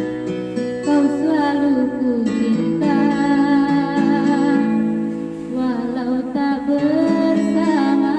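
A girl singing a slow love song, her voice bending and gliding between notes, over a guitar accompaniment.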